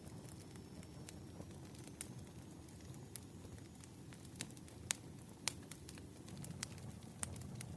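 Wood fire crackling: a low steady rumble of burning logs with sharp, irregular pops and snaps, the two loudest close together about five seconds in.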